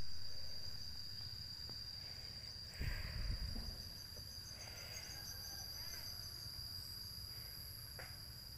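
Outdoor ambience dominated by a steady high insect drone, with a short run of quick chirps and a low bump about three seconds in.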